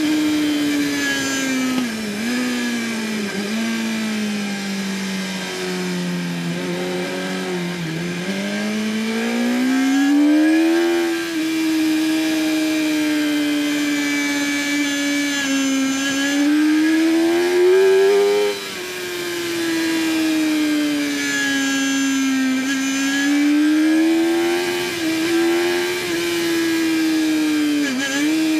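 2008 Yamaha R1's inline-four engine at racing speed on track, its note climbing under acceleration and falling back into corners, with quick dips in pitch at gear changes every few seconds.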